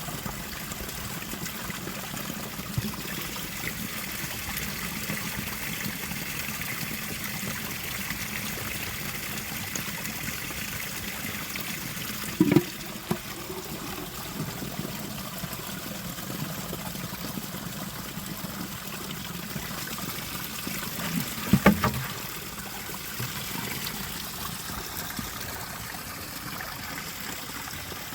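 Water running steadily, with two short knocks, one about halfway through and one about three quarters of the way in.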